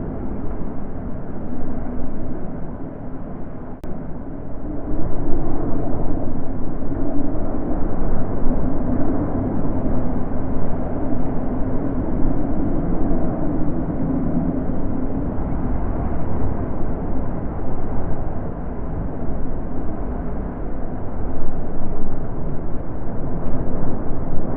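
Wind blowing in gusts: a steady rushing that grows louder about five seconds in, then rises and falls.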